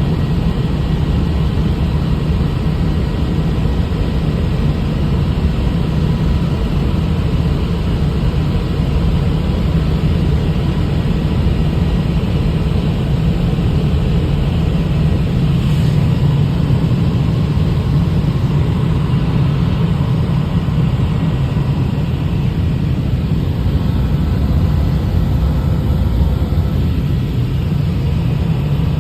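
Helicopter in flight: a loud, steady drone of rotor and engine, heaviest in the low end, with a faint steady whine above it.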